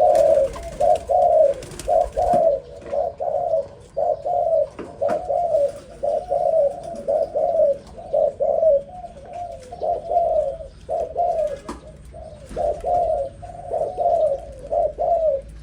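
Zebra dove singing its staccato cooing song: a long run of short coos, about two a second, with brief pauses. The bird is a young zebra dove just coming into song.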